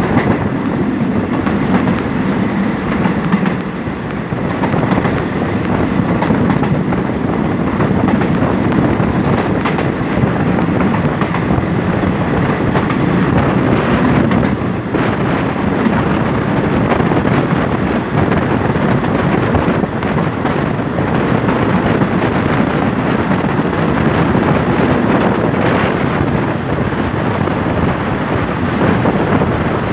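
Passenger express train running at speed, heard from a carriage window: a steady rumble and clatter of steel wheels on the rails, with wind rushing past.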